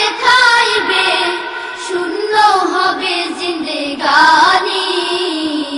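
A single high voice singing a Bengali devotional song, drawing out long wavering notes that bend up and down.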